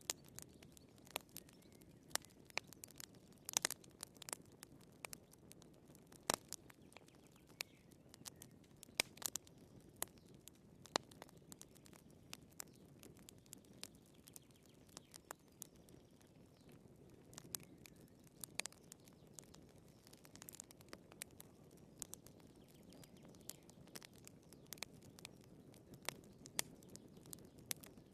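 Burning firewood crackling in a fireplace: irregular sharp snaps and pops, several a second and now and then a louder one, over a soft low rush of flame.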